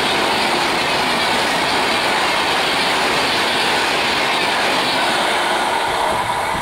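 A passing train's coaches running by, the steady noise of the wheels on the rails, easing slightly near the end.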